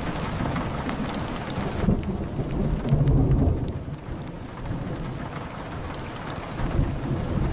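Steady rain with a rolling thunder rumble that builds about two seconds in, is loudest around three seconds and dies away by about four. Scattered small pops of a wood fire crackle over the rain.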